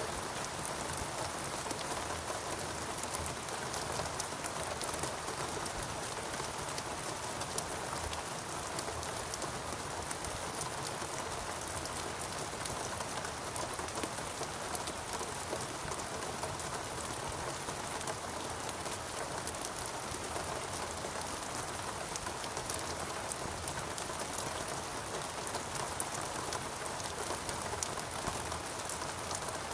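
Steady rain falling in a rainforest, a constant hiss with the close patter of many drops on leaves and surfaces.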